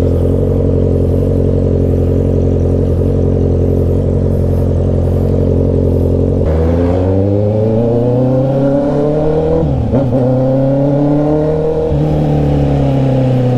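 Honda CB650R's inline-four engine idling steadily, then revving up as the motorcycle pulls away about halfway through. Its pitch climbs and drops back twice as it shifts up through the gears.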